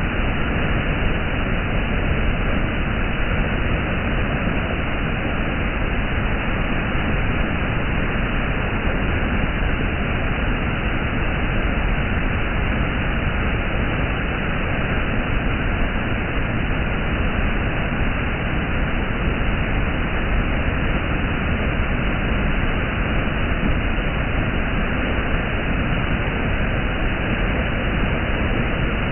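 Waterfall rushing, a loud, steady roar of falling water that does not change.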